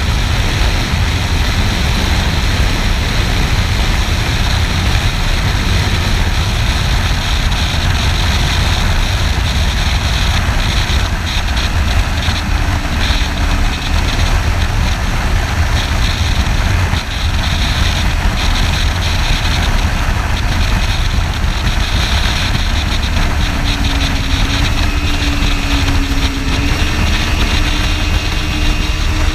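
Wind rushing over the camera microphone on a moving motorcycle, with the bike's engine heard faintly under it, its pitch rising near the end.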